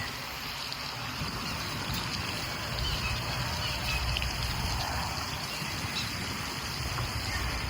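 Water trickling and flowing steadily, with a low rumble and a few faint chirps.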